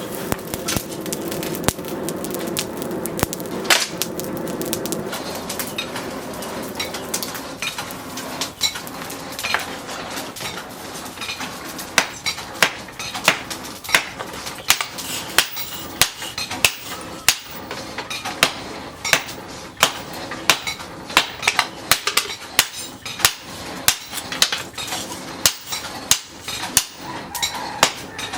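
Hand hammer striking hot steel from a tractor's disc-plough disc during forging, with a bright metallic ring. The blows are sparse at first, then settle about twelve seconds in into a steady rhythm of about two a second.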